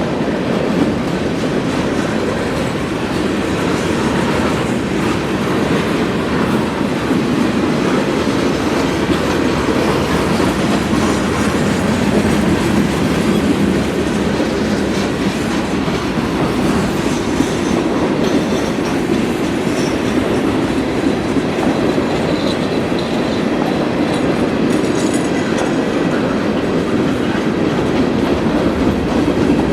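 CSX freight train rolling past, a steady loud rumble of wheels on rail with clickety-clack over the joints. Faint, brief wheel squeals come in during the second half.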